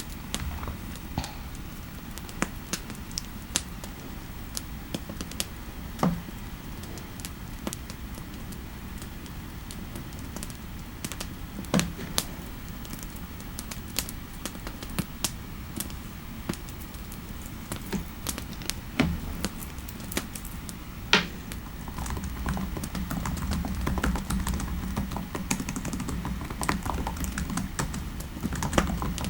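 Typing on a computer keyboard: irregular, scattered keystroke clicks with short pauses, over a steady low background rumble that grows louder about three quarters of the way through.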